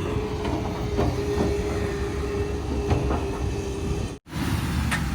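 Earth-moving machinery at work, most likely a JCB 3DX backhoe loader: its diesel engine runs steadily under a held tone, with several short metallic knocks. The sound cuts out for an instant about four seconds in and resumes.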